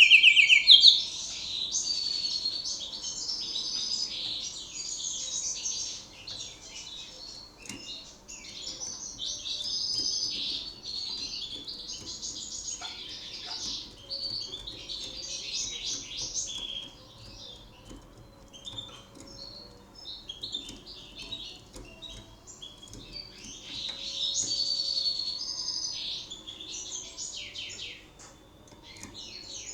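Canary singing: a long, near-continuous run of rapid high trills and chirps, loudest in the first second, then varying in strength with brief dips.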